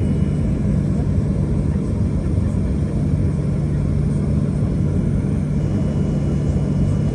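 Steady cabin noise of a Boeing 737-800 jet airliner: an even low rumble from its CFM56 turbofan engines and airflow, with a steady hum underneath, heard from inside the passenger cabin.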